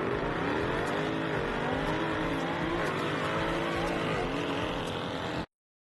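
Twin-turbo V8 sports saloon under full-throttle acceleration, its pitch climbing through the gears and dropping at three quick upshifts. The sound cuts off suddenly near the end.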